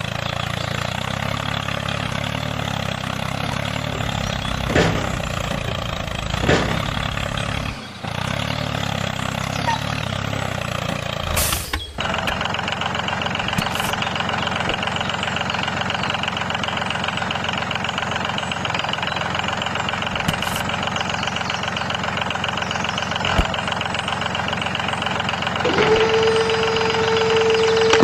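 A motor running steadily, with a sudden change in its sound about twelve seconds in. A steady whine joins near the end.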